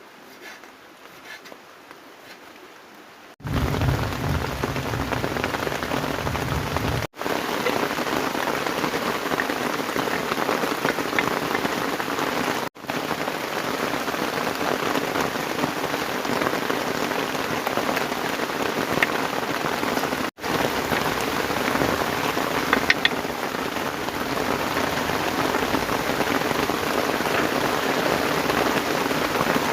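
Heavy rain pouring steadily. It comes in abruptly about three seconds in after a quieter start, and breaks off for an instant three times.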